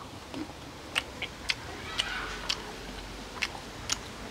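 A man chewing a mouthful of grilled chicken close to the microphone: a few sharp, irregular mouth clicks and smacks over a faint background hiss.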